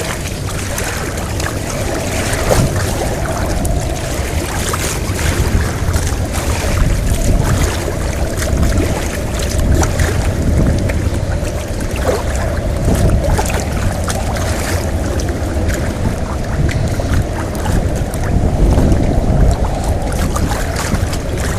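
Hurricane-driven wind buffeting the microphone with a heavy, steady rumble, over a rushing noise of wind and water.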